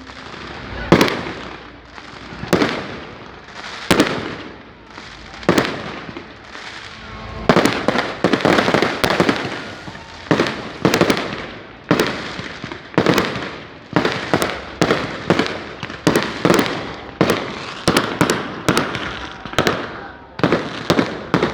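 Firecrackers going off in a series of sharp bangs, each with a short fading tail. They come about one every second and a half, then faster, roughly two a second, from about seven seconds in.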